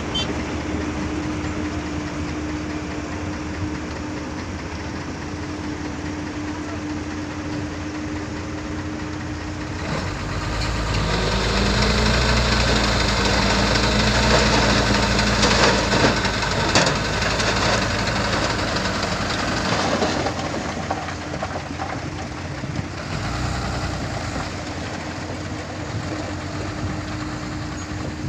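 Diesel dump truck engine idling. About ten seconds in it revs up and holds for roughly ten seconds, the load it takes while unloading fill soil, then drops back to idle.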